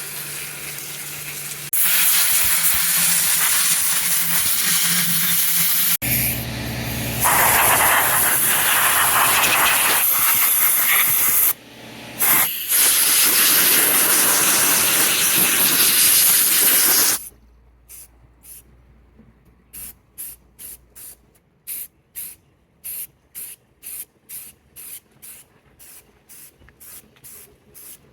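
A strong water spray jet hissing as it washes degreaser and grime off an engine, cutting in and out a few times. About two thirds of the way through it stops and gives way to short hissing spurts of spray, about one a second.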